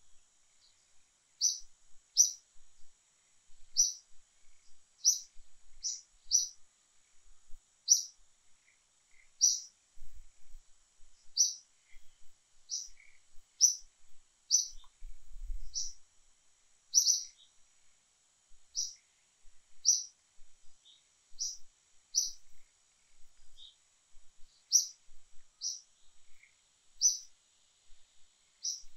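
A bird repeating a short, sharp, high-pitched chirp roughly once a second, over a faint steady high hum.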